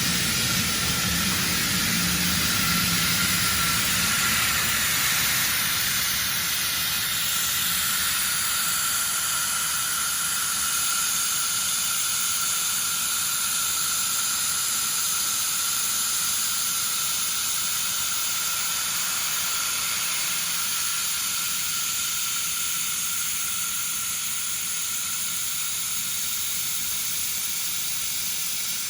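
Steady hissing from a 1500 W automatic laser welding machine at work on 1.5 mm carbon steel, with a few faint steady whistling tones over the hiss.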